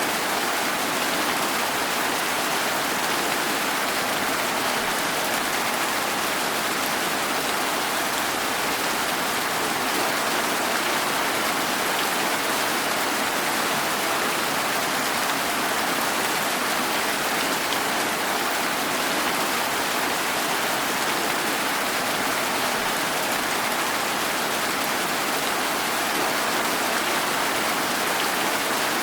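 Steady rain falling: an even, unbroken hiss of rain with no single drops, thunder or other events standing out.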